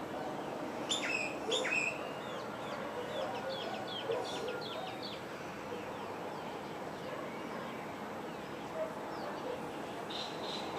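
Wild birds calling: a few loud, sharp downslurred chirps about a second in, then a run of short quick notes, and more chirps near the end, over steady background noise.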